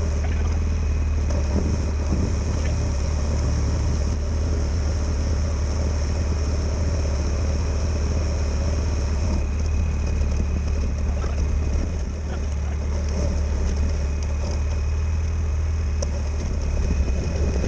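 A steady, loud low mechanical hum with a faint steady high-pitched tone over it.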